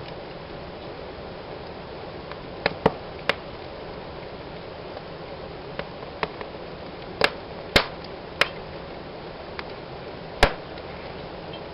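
Wood fire in a fireplace burning with a steady soft hiss, with irregular sharp crackles and pops, about a dozen, the loudest three near three, eight and ten seconds in.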